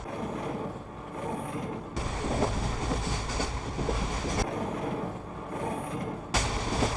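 Steady rumble and rushing noise of a moving train. It gets louder about two seconds in, drops back past the middle, and rises again near the end.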